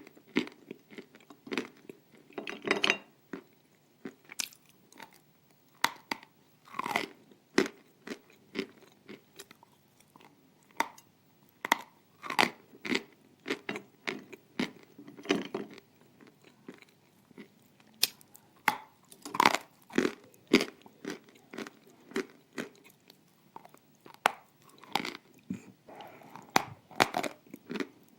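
Close-miked biting and chewing of hard, crumbly pieces of edible clay sold as 'dry desserts': a steady, irregular run of sharp crunches and gritty chewing crackles, one or two a second.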